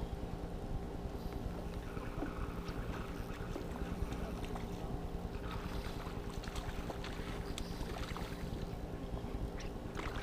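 Steady mechanical hum of a running motor, with a few faint clicks over it.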